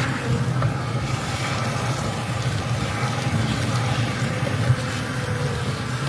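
Bee vacuum's motor running steadily with a low, constant hum during a live extraction of a honeybee colony.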